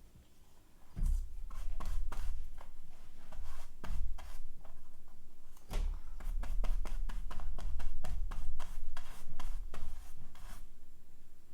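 Paper being handled and rubbed down by hand on a work surface: a run of scratchy rubbing strokes and ticks with dull bumps, starting about a second in and stopping shortly before the end.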